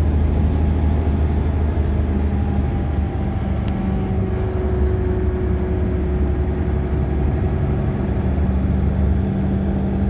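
Bus engine and road noise heard from inside the cabin while driving: a steady low drone with an even engine hum. A faint higher steady tone joins for a few seconds midway.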